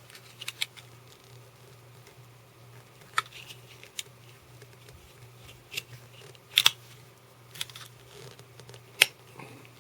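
Small metal and plastic parts clicking and scraping as a stack of coin cells and a plastic insulator are pushed into a battery's metal case, in irregular sharp clicks, the loudest about nine seconds in. A faint low hum runs underneath.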